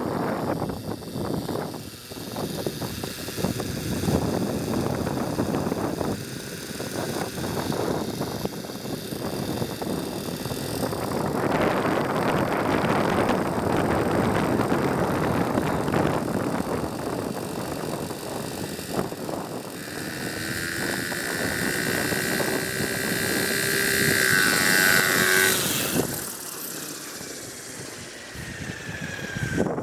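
Glow-engine RC helicopter (Hirobo Sceadu) running in flight, with engine and rotor noise mixed with wind on the microphone. About twenty seconds in, a whining tone rises in pitch and is loudest around 25 s. It then drops away suddenly, and the sound is quieter near the end.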